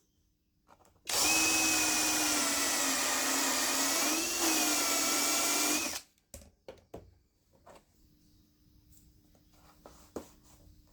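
Small electric motor whirring steadily for about five seconds, with a short dip and rise in pitch partway through, then stopping; a few light taps and clicks follow.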